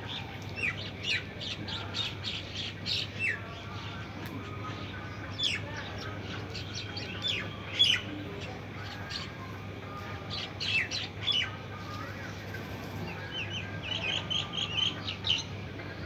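Small birds chirping: short, sharp calls in irregular clusters, with a quick run of repeated chirps near the end, over a steady low hum.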